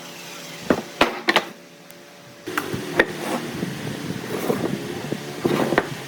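Sharp knocks and clatter of wood being handled or struck, over a steady machine hum that gets louder about two and a half seconds in.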